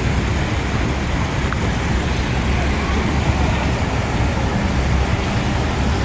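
Steady rushing noise of rain and road traffic on wet streets, with a strong low rumble underneath.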